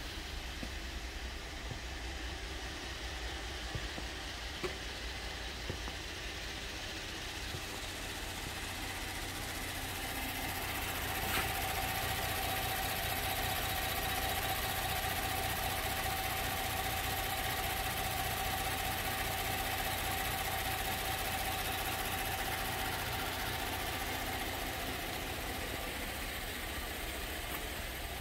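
2012 GMC Acadia's 3.6-litre direct-injection V6 idling steadily. It is louder, with a steady whine, through the middle stretch.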